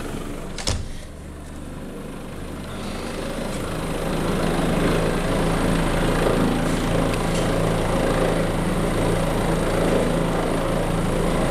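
Helicopter engine and rotor running steadily, growing louder about three to four seconds in as it powers up. A single sharp knock comes just under a second in.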